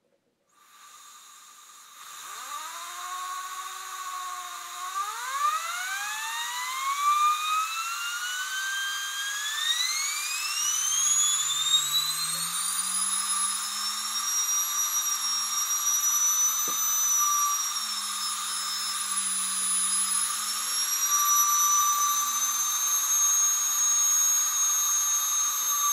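Small CNC-machined aluminium, brass and copper model turbine spinning up over a steady hiss. Its whine climbs steadily in pitch for about twelve seconds, then holds high with slight dips as it runs at a fast RPM. A fainter low hum rises underneath partway through.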